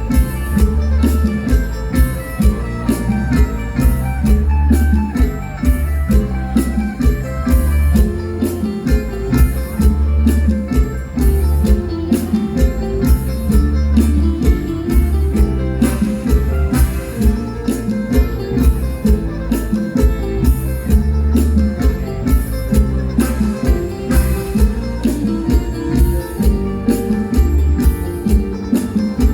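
Live mor lam band playing an instrumental passage: a plucked string lead over a heavy bass line and a drum kit keeping a steady beat.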